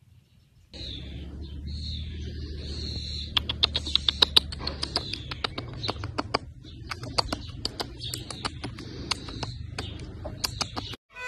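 Birds chirping over a low steady rumble, with runs of sharp clicks, a quick burst of them about three and a half seconds in and more near the end.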